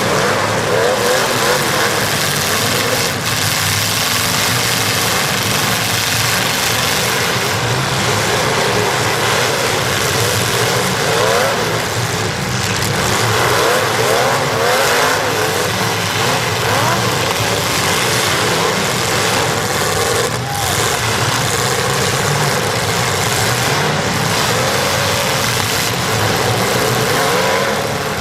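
Several demolition derby cars' engines revving hard at once, their pitches rising and falling over one another in a loud, unbroken din.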